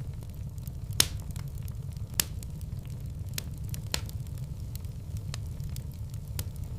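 Wood fire burning in a fireplace: a steady low rumble of the flames with irregular sharp crackles and pops, the loudest about a second in and just after two seconds.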